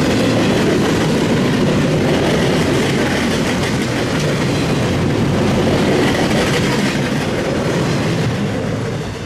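Freight train cars rolling past at track speed: a steady, loud rumble and clatter of steel wheels on rail.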